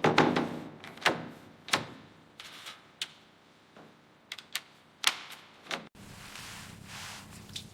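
A series of irregular sharp clicks and knocks, about eight in six seconds, the first few ringing briefly. About six seconds in, a hard cut gives way to a steady hiss.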